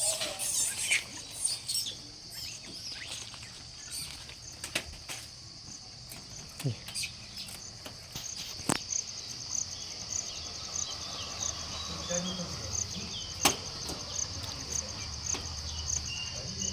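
Insects trilling steadily, a high continuous buzz with a fast pulse, with a few scattered sharp clicks and taps.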